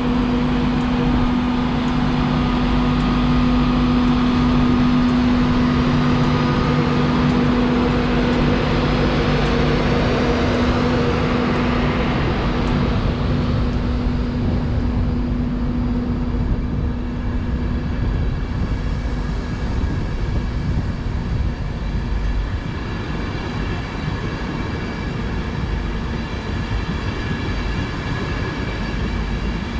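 LNER Class 91 electric locomotive standing at the platform with its onboard equipment running: a loud steady hum over a hiss, which dies away about halfway through. It leaves a quieter steady hum with a faint high whine.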